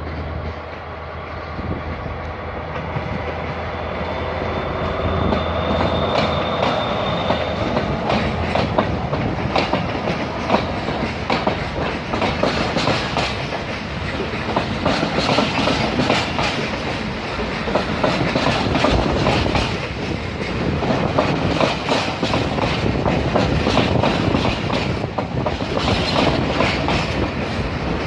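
A train passing close by, its wheels clattering in rapid clicks over the rail joints. The sound builds over the first few seconds as the train arrives.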